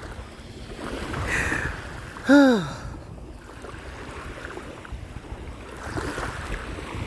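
Ocean surf and wind buffeting a phone microphone, a steady rushing noise. About two seconds in comes one short vocal sound that falls in pitch.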